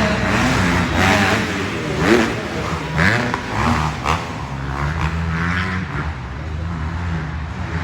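Several dirt bike engines running and revving around the track, their pitch rising and falling as the riders open and close the throttle.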